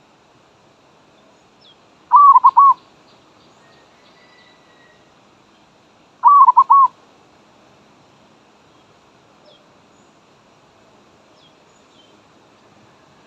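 Zebra dove (merbok) cooing: two short phrases of several quick notes, about four seconds apart.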